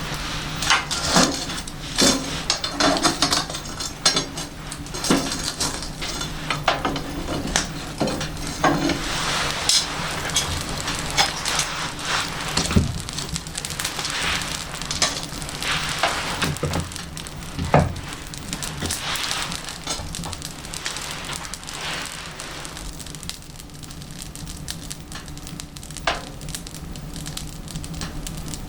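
Wood fire crackling and hissing inside a Komeri wood-burning stove, with irregular sharp pops over a steady low hum. The pops thin out near the end.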